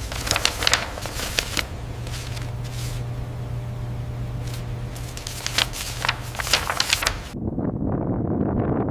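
Irregular crackling and sharp clicks over a steady low hum; about seven seconds in, this cuts to a rough, wind-like rush.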